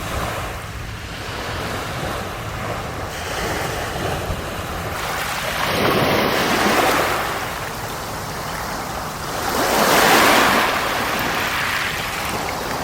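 Sea waves washing onto the shore, swelling twice as waves break, with wind buffeting the microphone.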